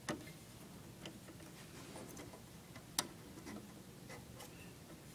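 A few light, scattered clicks and taps from handling the window air conditioner's parts, about one a second, the sharpest about three seconds in, over faint background noise.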